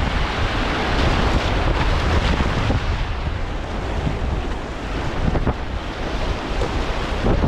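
River whitewater rushing around a kayak, with wind buffeting the microphone.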